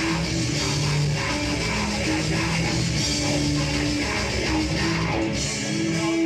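A live rock band playing heavy, loud music, with distorted electric guitars, bass and a drum kit. Near the end the drums drop away, leaving the guitars.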